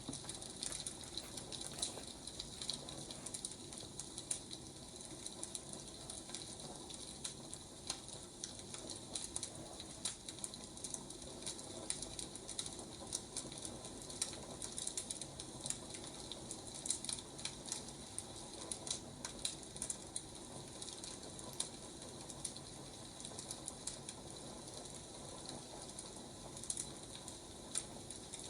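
Wood fire burning, with irregular crackles and pops over a steady hiss.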